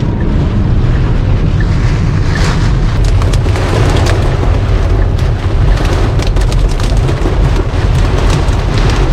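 Heavy storm rain drumming on a car's roof and windshield, heard from inside the cabin over a steady low rumble of road and wind noise. Sharp ticks of impacts grow denser from about three seconds in.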